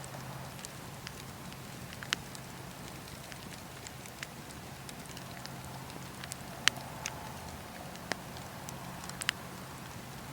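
Wood campfire burning: a steady hiss with scattered sharp crackles and pops, the loudest pop about two-thirds of the way through.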